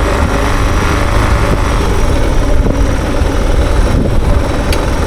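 Suzuki DR650's single-cylinder engine running as the motorcycle is ridden along a gravel road, a steady loud rumble with a sharp click near the end.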